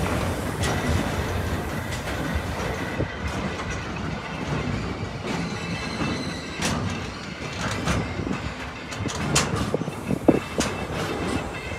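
Train running past on the rails, a steady rumble with wheels clicking over rail joints at irregular intervals and a brief sharper sound near the end.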